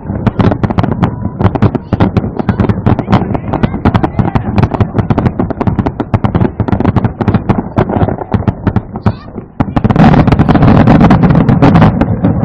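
Aerial fireworks going off in a rapid barrage of bangs and crackles. About ten seconds in they become a denser, louder volley, which dies down at the very end.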